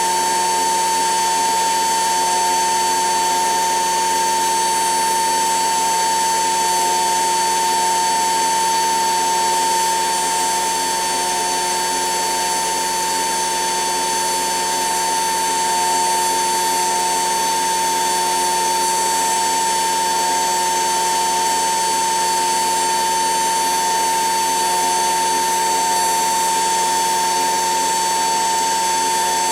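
HUSTOO 775 DC motor running a toy washing machine's drum through a pulley, a steady motor whine with one strong tone and no change in speed.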